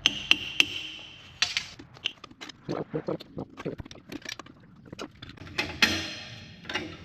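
Steel track-link parts and tools clinking and knocking irregularly as a bulldozer track link is worked on, with a ringing metallic tone in the first second and a short rasping noise about six seconds in.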